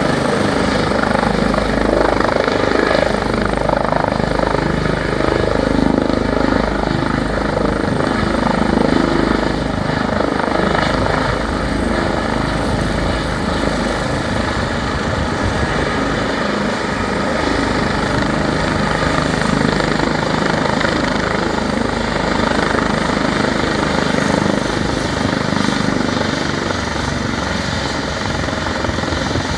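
Helicopter's rotor and turbine running steadily during its landing, loud and continuous, easing slightly near the end.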